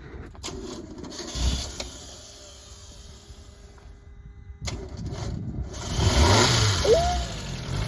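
1993 Mazda Miata's 1.6-litre four-cylinder engine cranking and catching about five seconds in, then revving as it fires up after sitting about a year. A short burst comes about a second and a half in. The no-crank fault, which the owner puts down to bad grounding and the starter relay, is overcome here.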